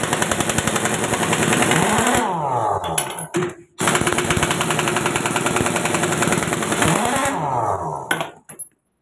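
Impact wrench hammering in two long runs of about three seconds each, with a short pause between them; the motor winds down at the end of each run.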